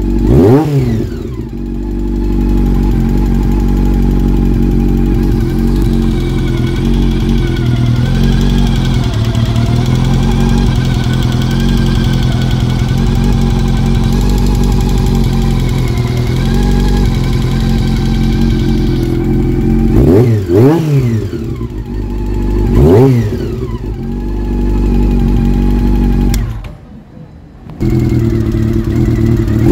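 Honda CB400 motorcycle engine idling steadily and blipped the throttle a few times, with quick rises and falls in revs near the start and several more about two-thirds of the way in. There is a short drop in level just before the end.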